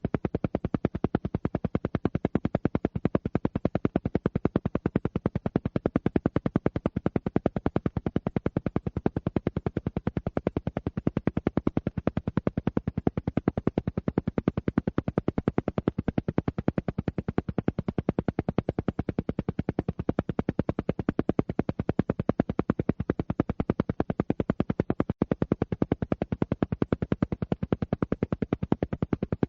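Alpha-wave entrainment sound: a rapid, perfectly even train of short low pulses repeating without pause, of the kind used as isochronic tones to pulse at alpha-wave rate.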